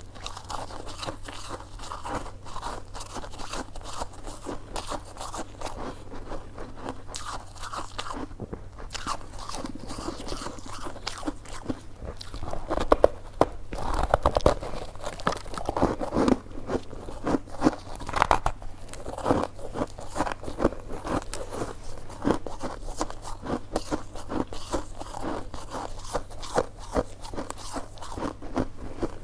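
Close-up eating of coconut sticky rice cake: a continuous run of biting, chewing and small crunching mouth sounds, louder through the middle.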